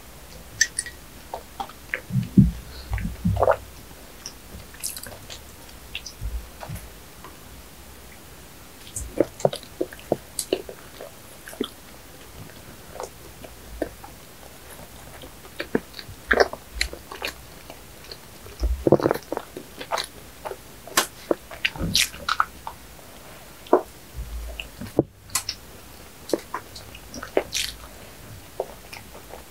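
Close-miked biting and chewing of soft cream-filled bread, with irregular small clicks and crackles from the mouth. There are a few gulps from a drink about two to three seconds in.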